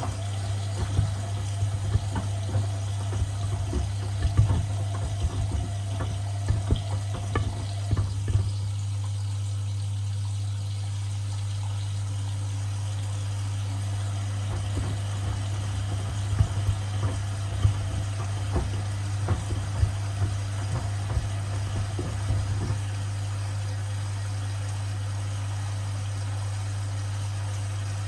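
Washing machine washing a load of sneakers: water sloshing in the turning drum over a steady low motor hum, with irregular knocks during the first third and again past the middle.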